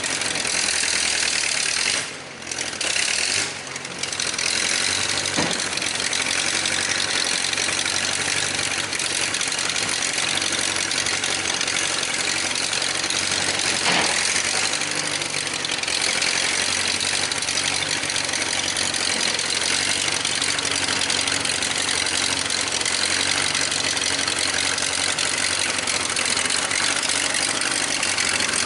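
1956 Case 310 tractor's carbureted gasoline engine running steadily, with two brief drops in level about two to four seconds in.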